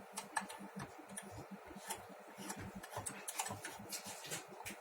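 Light, irregular metallic clicks and ticks of hands working a coaxial connector, reconnecting the dummy load's cable to the amplifier, over a faint steady hum.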